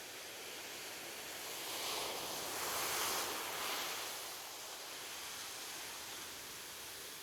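Soft ocean waves on a beach: a steady hiss of surf, with one wave swelling about two seconds in, loudest around three seconds, then washing out and fading.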